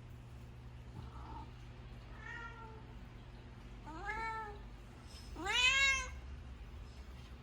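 Cat meowing three times, each call rising then falling in pitch, the third the longest and loudest.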